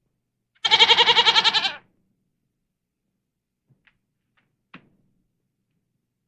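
Domestic goat bleating once, a wavering call of about a second with a fast quaver in it. Two faint clicks follow a few seconds later.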